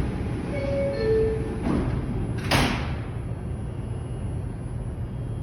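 New York subway car's door-closing chime, two descending tones, followed by the sliding doors shutting with two knocks, the second louder. A steady low rumble of the train runs underneath.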